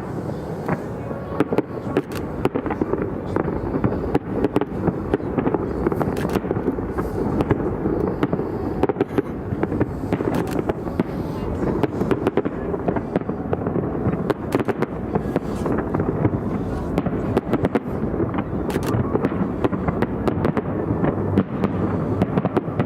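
Fireworks display across the river: a dense run of sharp cracks and bangs in quick, irregular succession over a continuous rumble.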